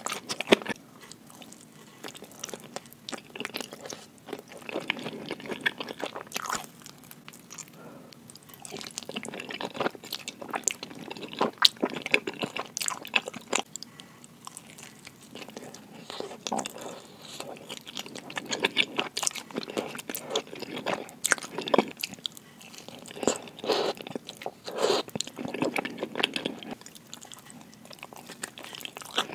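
Close-miked mouth sounds of a person biting and chewing pepperoni pizza: the crust crunching and wet, sticky chewing, in irregular bites with many sharp clicks.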